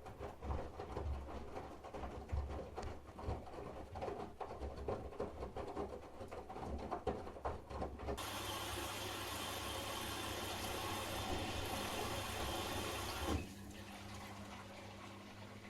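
Candy GrandO Plus washing machine during a boil wash: the drum tumbles the load with irregular clicks and knocks over a low rumble. About eight seconds in, this gives way abruptly to a steady hiss of water running into the machine for about five seconds. A quieter steady hum follows near the end.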